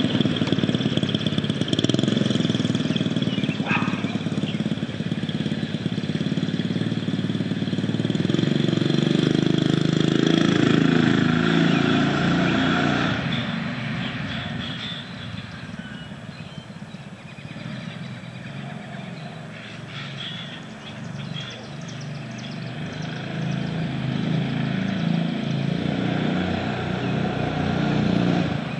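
Predator 6.5 hp single-cylinder mini bike engine running through a new custom exhaust, with a deep note. It fades away a little past halfway and grows louder again near the end, as if the bike rides off and comes back.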